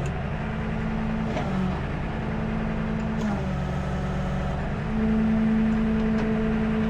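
Tow truck engine running steadily. It steps to a higher, louder speed about five seconds in, as the truck works its lift to raise the load.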